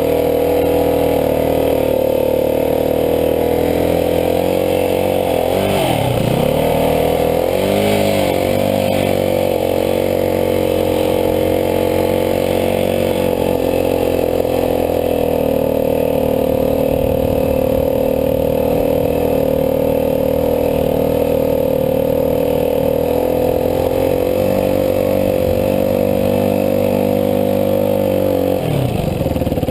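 Dirt bike engine running at a steady speed under way. Its note drops and climbs back about six and eight seconds in, and again near the end, as the throttle is eased off and opened again.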